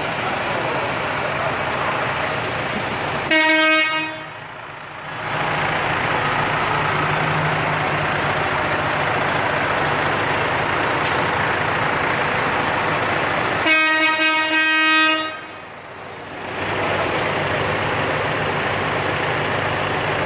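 Two vehicle horn blasts, a short one about three seconds in and a longer one about fourteen seconds in, over the steady running of tractor engines.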